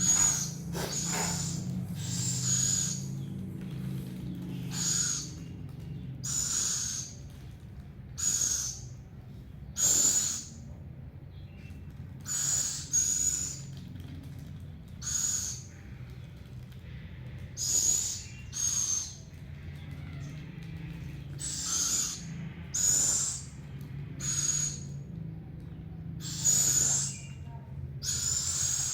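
An owl calling over and over, every second or two: short hissing screeches with a high whistle-like tone. This is the food-begging of a hungry owl.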